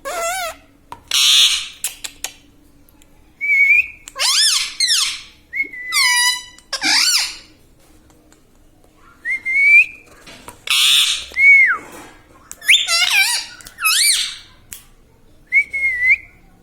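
Ring-necked parakeet giving a string of short, high whistled calls that slide up and down in pitch, mixed with a few harsh screeches, with brief pauses between them.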